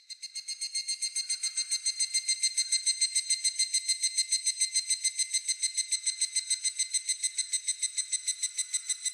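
Higurashi (evening cicada) calling: a rapid, even train of ringing pulses that swells over the first couple of seconds and then holds steady, easing slightly near the end.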